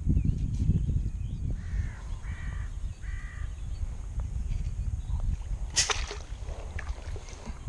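A bird calling three times in quick succession, each call short and harsh, over a steady low rumble; a sharp click about six seconds in.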